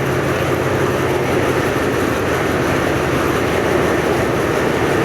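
Alsthom diesel-electric locomotive's engine running steadily with a low hum while the train stands at the platform, ready to depart.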